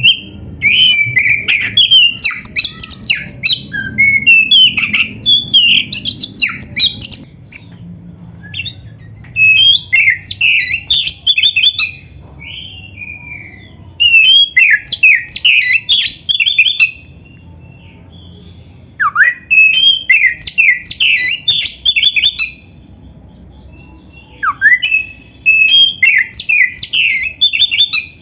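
Oriental magpie-robin (kacer) in full song: fast, varied high phrases in five bursts with short pauses between.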